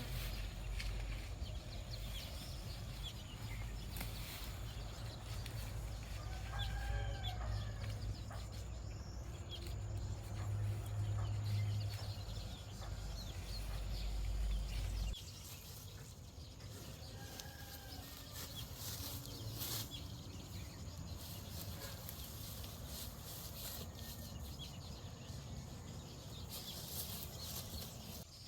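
Chickens clucking, with a few short calls. A low rumble runs under the first half and cuts off suddenly about halfway through.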